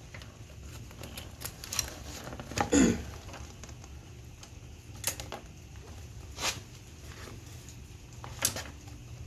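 Hands working parts and tools into place on an ATV: a handful of separate sharp clicks and knocks, the loudest a short scraping clack about three seconds in, over a low steady hum.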